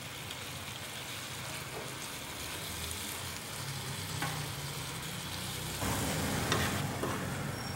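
Mutton liver and chopped tomatoes sizzling on a tawa griddle while a slotted metal spatula stirs and scrapes through them, with a few sharp clicks of the spatula on the pan. The stirring gets louder about six seconds in.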